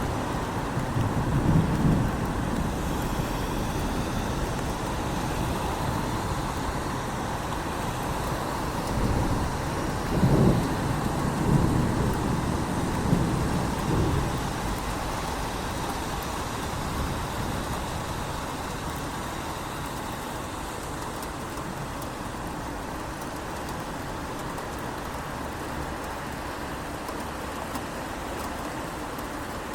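Steady rain, with deep low rumbles near the start and again about nine to fourteen seconds in, then settling into a softer, even patter.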